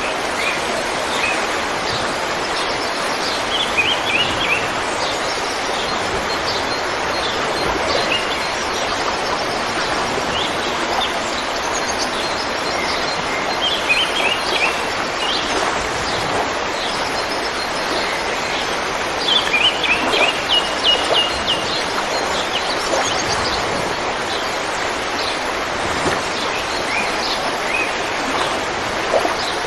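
River water flowing steadily, with small birds chirping over it in short, quick phrases of repeated notes every few seconds.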